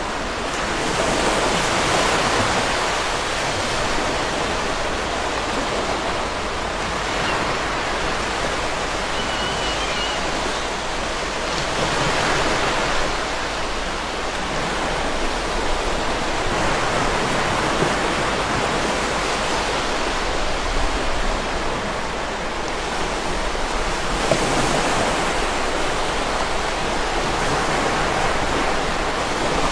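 River water rushing steadily, an even whitewater noise that swells and eases every few seconds.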